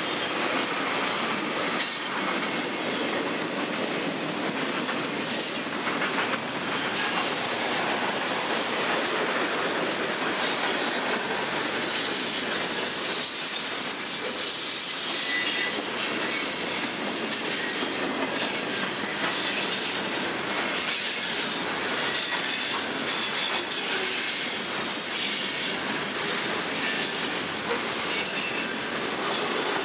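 A mixed freight train's cars rolling past close by: a continuous steady wheel-on-rail clatter with high-pitched wheel squeal, the squeal strongest around the middle.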